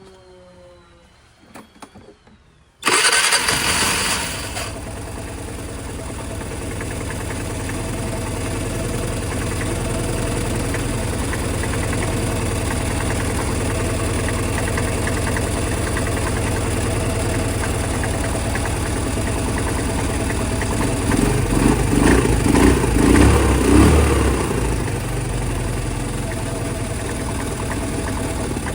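Vespa GT200's single-cylinder four-stroke engine starting about three seconds in, then idling steadily. The throttle is blipped a few times a little before the end, and the engine settles back to idle.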